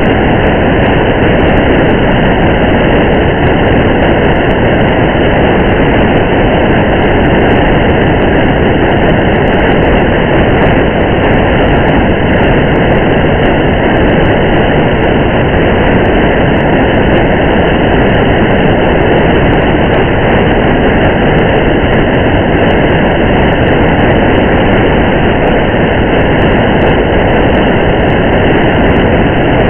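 Steady rain and road noise of a car driving on a highway in the rain: an even, unbroken rush with a few faint scattered ticks.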